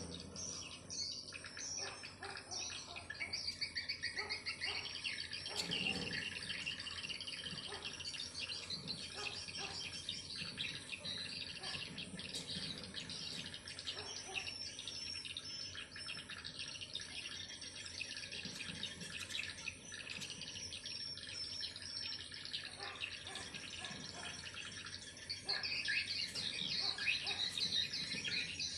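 Swiftlets twittering: a dense, unbroken chorus of rapid high chirps that grows louder near the end. This is a swiftlet call sound of the kind played to lure the birds to nest.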